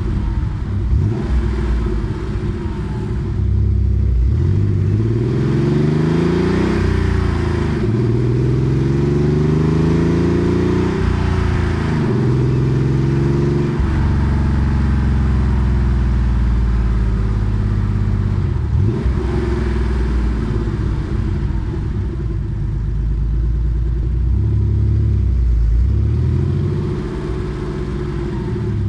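Porsche 964 Carrera 2's air-cooled flat-six, breathing through a centre straight-through muffler, accelerating through the gears: the exhaust note climbs, drops at each shift and climbs again. It then falls away as the car slows and cruises, and starts to rise again near the end.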